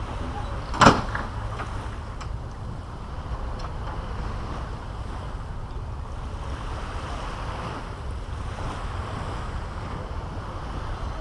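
Caribbean Sea surf washing on a beach, under a steady low rumble of wind on the microphone. A single sharp, loud sound comes about a second in.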